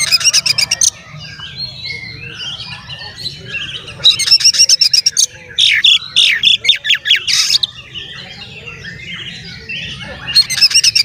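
Oriental magpie-robin (kacer) singing in full voice: rapid bursts of harsh, rattling notes at the start, about four seconds in and near the end, loud whistled phrases around the middle, and softer varied warbling in between.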